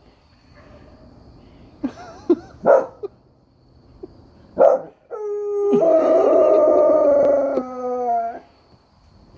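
A dog howling at coyotes: a few short yips, then one long howl of about three seconds that dips in pitch at its end.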